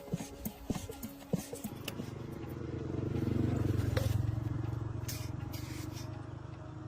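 A few scraping clicks, then a low motor hum that swells for a couple of seconds and slowly fades.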